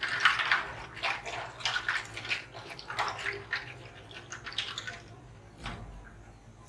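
Water splashing and sloshing in irregular bursts for about five seconds, then dying down.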